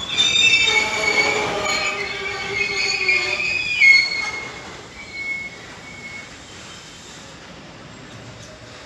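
Train wheels squealing against the rails as a train rolls slowly past: several steady high-pitched tones over a rumble, fading out after about five seconds and leaving only a quieter running noise.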